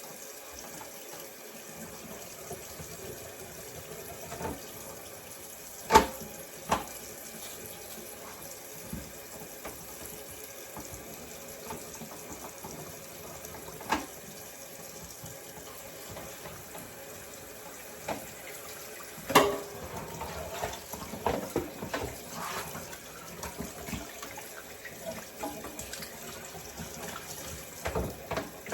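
Kitchen tap running steadily into a sink while raw ribs are handled under it. A few sharp knocks are heard, and from about two-thirds of the way through there is more irregular splashing and clatter.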